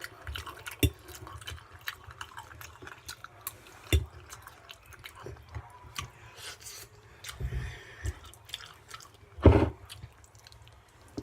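Close-up wet chewing and lip-smacking of a mouthful of lasagna, many small moist clicks, with a few dull thumps, the loudest about nine and a half seconds in.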